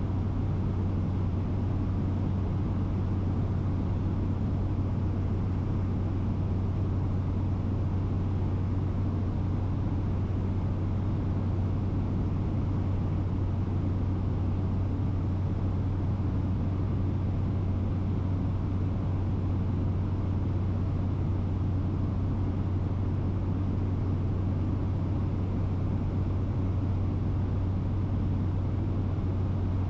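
Steady cabin drone of a light propeller aircraft in flight, a constant deep hum with an even rushing noise above it and no changes.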